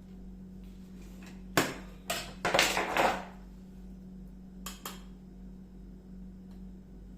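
Kitchen dishes and utensils clattering. A sharp knock comes about a second and a half in, then a short run of clattering and knocking around two to three seconds, and two light clicks near five seconds, all over a steady low hum.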